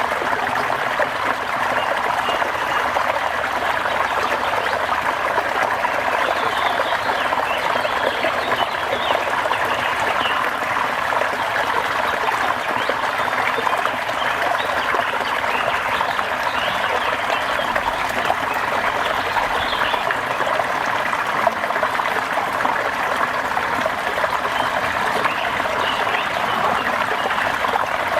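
Steady rain falling as a dense, even patter with no let-up. Faint high calls sound here and there over it.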